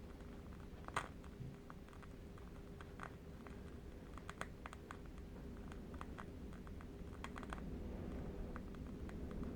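Faint, irregular crackle of a burning candle wick, small scattered clicks with one sharper pop about a second in, over a low, steady rumble of distant wind.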